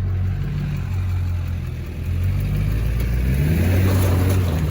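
Duramax LB7 V8 turbo-diesel pickup engine running under load, easing off about two seconds in and then revving up louder.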